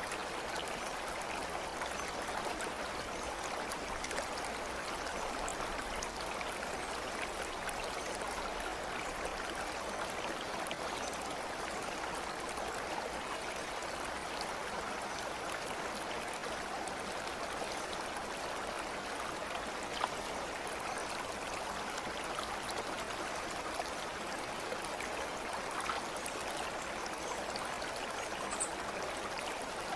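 Steady rushing of a flowing stream, with scattered small ticks and splashes and a brief high note near the end.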